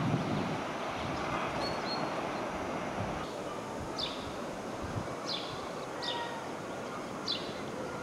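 Short high bird chirps, each a quick falling note, about once a second from halfway through, over a steady background noise.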